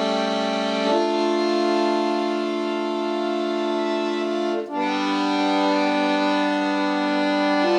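Solo accordion playing slow, held chords of a Russian folk song arrangement. The chord changes about a second in and again a little past the middle, just after a brief dip in the sound.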